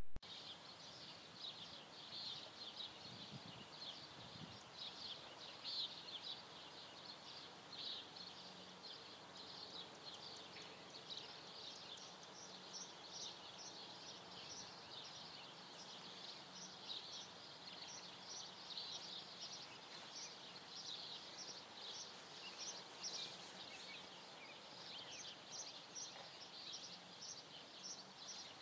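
Faint, dense chorus of birds chirping and twittering, a steady run of short high chirps.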